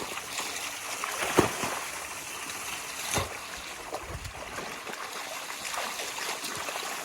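Water splashing and trickling in a muddy pool, with sharper splashes about a second and a half in and again about three seconds in.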